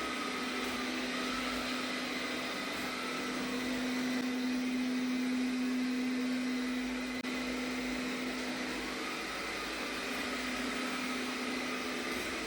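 Arnagar S8 robot vacuum cleaning in mopping mode: a steady motor hum over a broad hiss, with a faint higher whine that wavers up and down.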